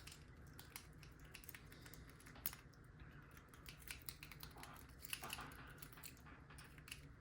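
Faint irregular metallic clicks and ticks of a lock pick (a McTickler) raking the pins in a lock's keyway under a tension wrench, the lock not yet opening.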